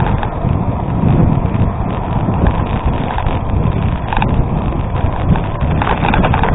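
Wind rushing over the microphone of a riding bicycle, with tyre and drivetrain noise underneath and a few light rattling clicks near the end.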